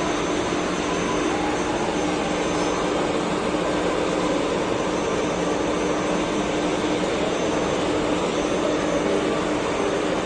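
Injection molding machine running: a steady mechanical hum under an even noise, with no change in level.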